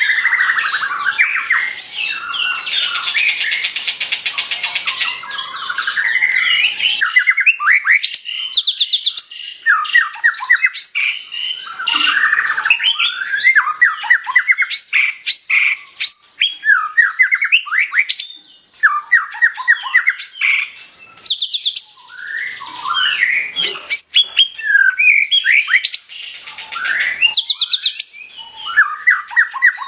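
White-rumped shama (murai batu) in full song. It delivers a fast, varied run of whistled sweeps, rapid trills and harsh chattering notes in phrases separated by brief pauses.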